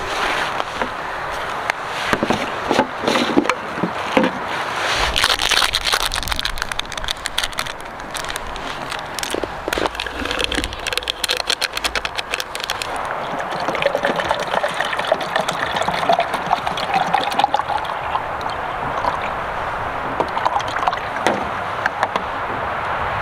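Water sloshing and gurgling, with many small clicks and knocks, and a wavering tone through the second half.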